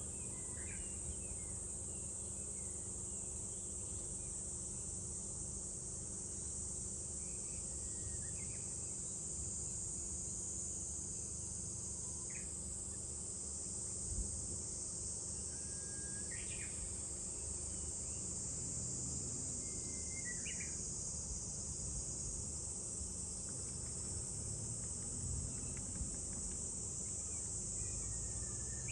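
Summer insect chorus, cicadas, making a steady high-pitched drone, with a few short bird chirps scattered through it over a steady low rumble.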